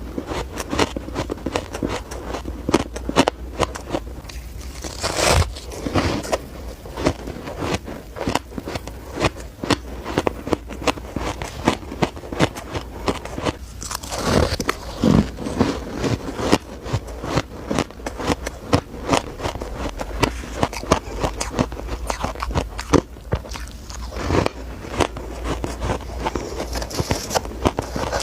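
Close-up biting and chewing of shaved ice, with rapid, irregular crunches and crackles throughout.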